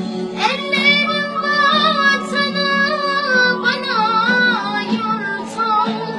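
A girl singing a melody with wavering, sliding ornamented notes over steady backing music.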